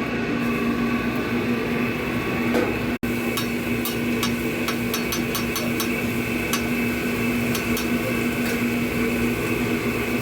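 A steady machine hum with a strong low tone, joined from about three seconds in by irregular sharp taps and clicks, several a second.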